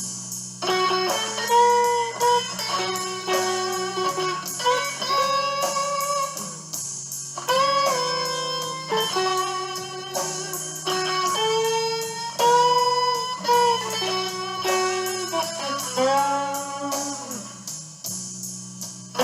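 Electric guitar playing a slow blues lead with bent, sustained notes over a backing track of bass and drums.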